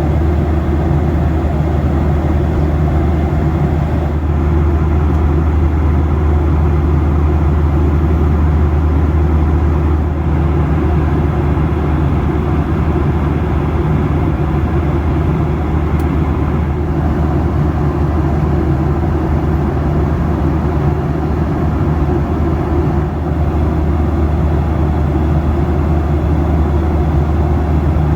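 Steady cabin noise of a Boeing 737 in cruise: a constant low drone under an even rushing hiss, unchanging throughout.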